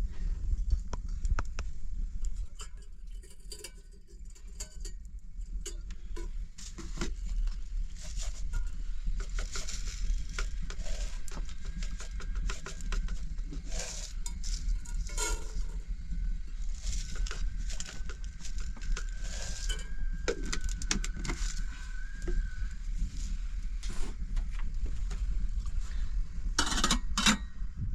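Scattered knocks and clinks over a steady low rumble, with a faint held tone for several seconds about two-thirds of the way through.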